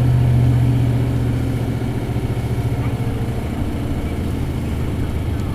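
Isuzu 8PE1-S V8 diesel engine of an Isuzu Cubic KC-LV280L city bus, heard from inside the bus, running with a steady drone that eases off and grows quieter about a second and a half in.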